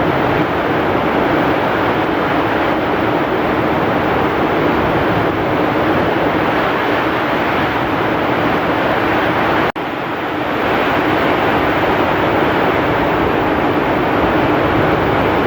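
Heavy rain and strong wind in a steady, dense roar. It cuts out for an instant about ten seconds in, then resumes a little quieter and swells back up.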